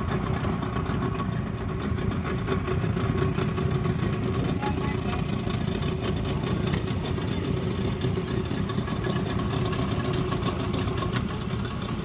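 Twin Yamaha 40 hp outboard motors running steadily, pushing a small tour boat along.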